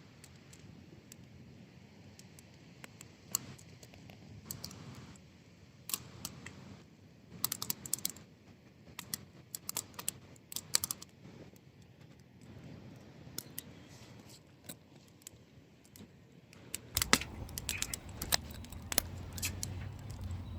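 Wood fire crackling and popping: irregular sharp snaps, coming in quick flurries in the middle. A low steady rumble joins near the end.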